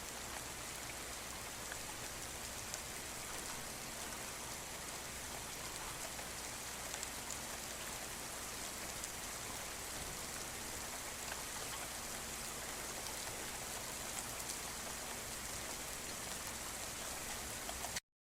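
Steady rain falling, with scattered individual drops ticking through the even hiss. It cuts off suddenly near the end.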